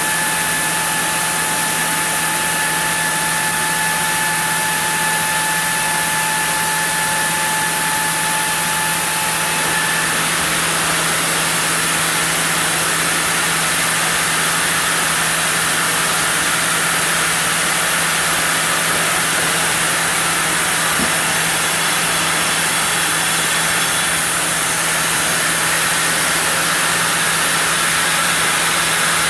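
Sawmill saw running through a block of zelkova: a steady, loud machine noise over a constant hum. A high whine in it fades out about ten seconds in.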